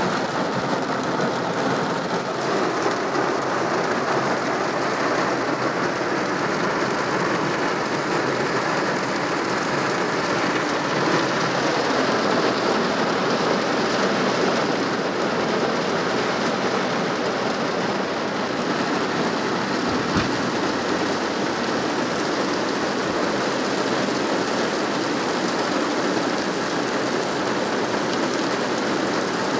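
Heavy rain pouring steadily, heard from inside a car as it falls on the car and the road around it.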